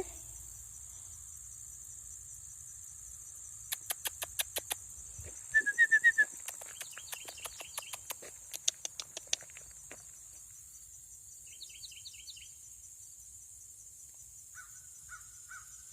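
Outdoor ambience: a steady high insect drone with bird chirps and short calls scattered through, and two runs of sharp clicks about four and seven to nine seconds in.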